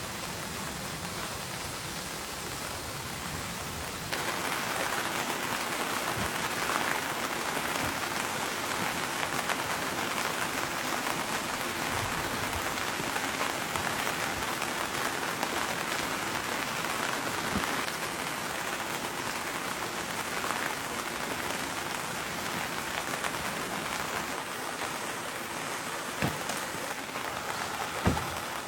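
Steady rain falling, becoming heavier and louder about four seconds in, with two brief sharp knocks near the end.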